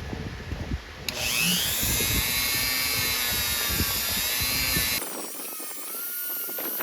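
Small high-speed power tool, a drill or rotary tool, starting about a second in after a few light knocks, running with a steady high whine for about four seconds and cutting off abruptly. A quieter steady fan hum follows.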